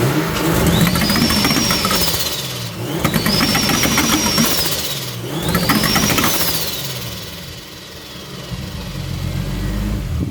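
Turbocharged BMW M50 straight-six in an E36, straight-piped, revved three times in quick succession; each rev brings a high turbo whistle that climbs, holds and falls away as the throttle closes, over a raspy, crackling exhaust note. The engine drops back near the end and starts to rise again.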